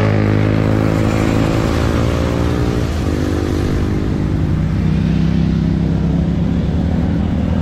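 Motor vehicle engine running steadily, its pitch easing down slightly over the first few seconds, over a continuous rushing road noise.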